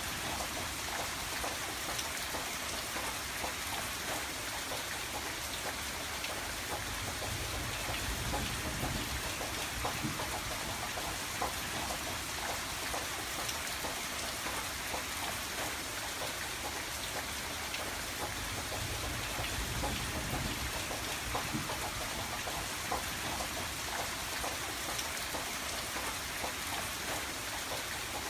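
Steady rain on a window, with many small drops ticking against the glass. A low rumble swells twice, about a third of the way in and again past the middle.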